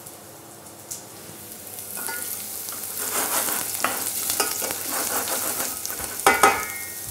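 Diced carrots sizzling in hot oil in a stainless-steel saucepan while being stirred. The sizzle grows louder about two seconds in, with light scraping, and a short, loud ringing knock comes near the end.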